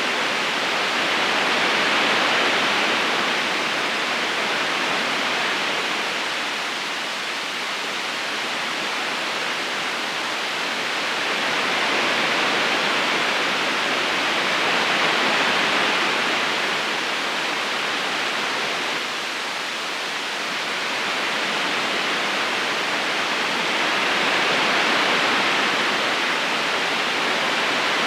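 River current flowing over stones: a steady, even rush of water that swells and eases slowly a few times.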